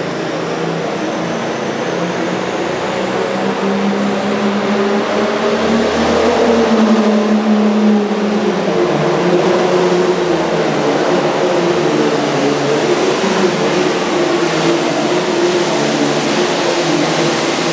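Super farm pulling tractor's turbocharged diesel engine running hard under load, with a thin high whine rising over the first six seconds and the engine note dropping a little about eight seconds in.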